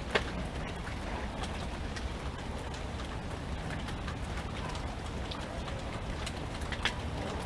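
Steady rain, with individual drops striking close by as scattered sharp taps; two louder drop hits come just after the start and near the end.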